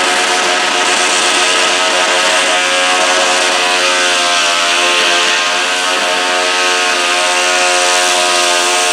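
Modified garden pulling tractor's engine running hard at high revs, loud and steady, its pitch dipping briefly and recovering about halfway through.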